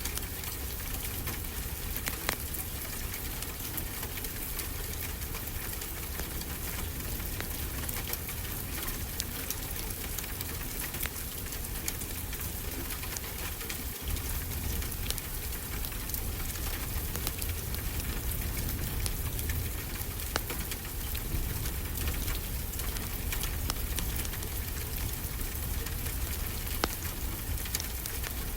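Ocean waves as a steady low wash, with a fireplace crackling over it in scattered sharp pops, a few louder than the rest.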